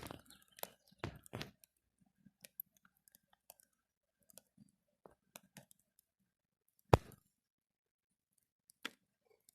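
Campfire crackling: sparse small pops and ticks, with one loud snap about seven seconds in and another near the end.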